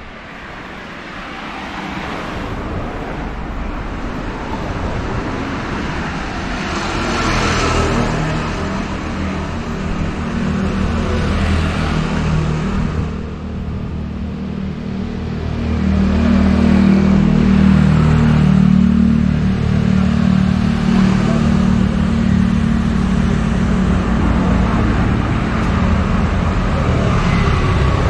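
Street traffic: vehicles passing close by, with a steady engine sound that grows louder about halfway through and keeps running.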